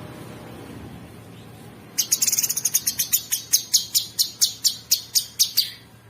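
Cucak sungkok songbird calling a rapid string of sharp, high notes, very fast at first and then slowing to about four a second, starting about two seconds in and stopping shortly before the end.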